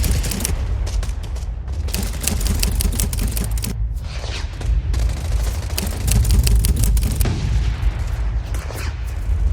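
Airsoft guns firing in rapid bursts of sharp cracks, with short pauses between the bursts, over a steady low rumble.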